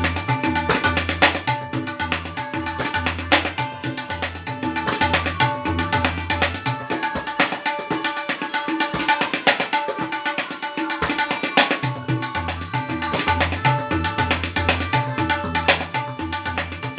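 Tabla solo in teentaal: rapid, dense strokes on the dayan with deep, booming bayan bass strokes, which drop out for a few seconds in the middle before returning.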